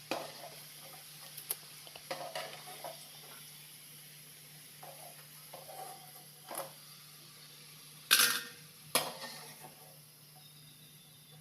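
Kitchen utensils and dishes clinking and knocking in scattered taps while food is handled, with a louder clatter about eight seconds in and another a second later.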